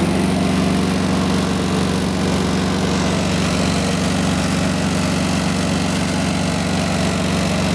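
Peterbilt 386 semi truck's Cummins ISX diesel engine idling steadily with an even, unchanging note.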